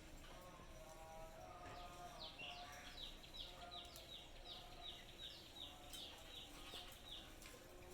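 A pet parrot faintly chirping: a quick run of short, high, down-sliding chirps, about three or four a second, starting about two seconds in and stopping near the end.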